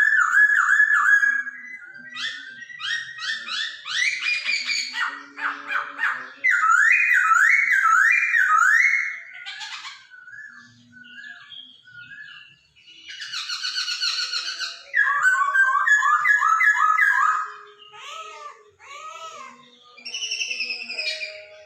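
Poksay Hongkong laughingthrush singing loudly: varied whistled phrases of quickly repeated rising notes and rapid trills, in bursts of a few seconds with short pauses between.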